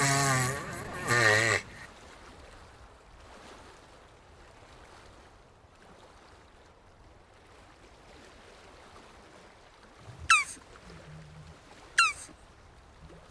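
Jabuti tortoise calling: a loud, wavering, groaning call that stops about a second and a half in. Three short, sharp chirps that sweep downward come near the end.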